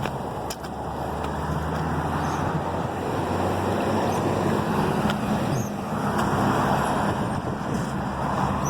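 Road traffic: the engine hum and tyre noise of motor vehicles on the road, building a little over the first few seconds.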